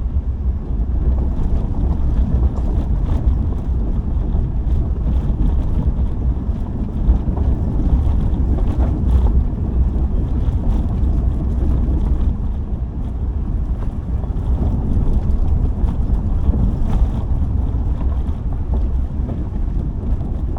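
Subaru driving on a gravel road: a steady low rumble of tyres and engine, with scattered small ticks from loose stones and some wind noise on the microphone.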